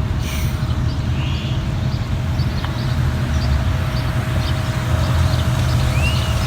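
Steady low rumble with a faint steady tone above it, and a few bird chirps about a second in and near the end.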